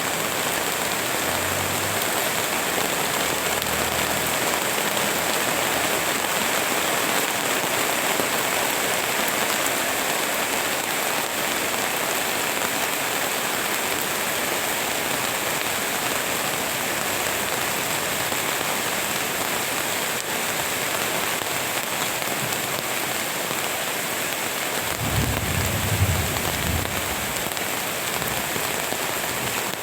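Steady rain falling in a garden, an even, dense hiss of drops on surfaces. Near the end a brief low rumble rises under it.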